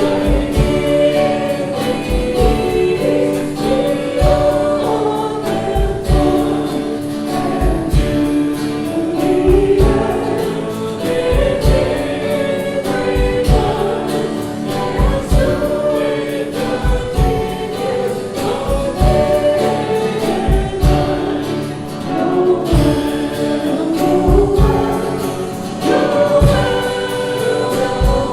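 Worship song with a group of voices singing a melody over instruments and a steady low beat.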